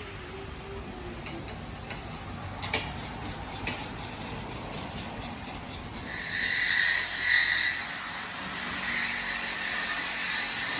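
Metal work on a car's exhaust while the old muffler is being removed: a steady low rumble with a couple of knocks, then a loud high squeal twice, about six and seven seconds in, followed by a hiss.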